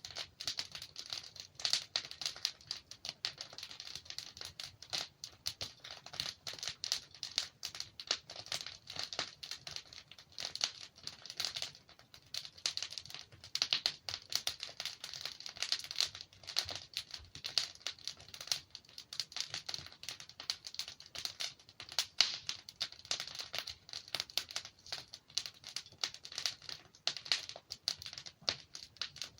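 Wood fire crackling and popping as logs burn, a dense run of irregular sharp snaps.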